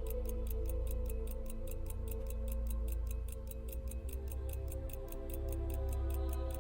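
Background music of sustained tones, over a steady fast ticking of about five ticks a second from a running pocket watch.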